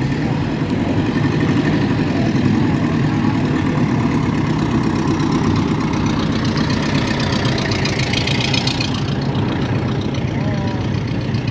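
Car engine idling with a steady low rumble. A rushing noise builds over it and cuts off suddenly about nine seconds in.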